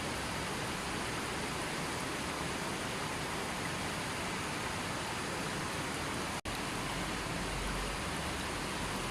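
Steady, even hiss of rushing water, cutting out for an instant about six and a half seconds in.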